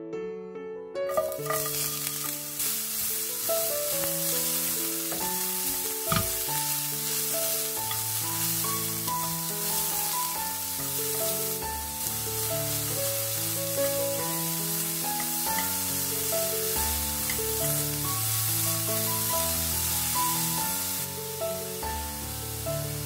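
Shredded burdock root sizzling as it is stir-fried in oil in a stainless steel frying pan, the sizzle starting about a second in and easing a little near the end, with a single knock about six seconds in. Light background music plays throughout.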